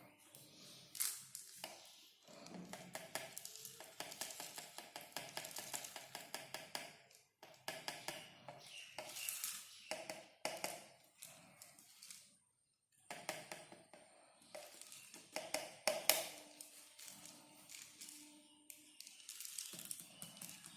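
Irregular clicking, rattling and crackling from a homemade plastic-bottle vacuum cleaner model. The sounds come in bursts with short pauses, and the longest pause is about twelve seconds in.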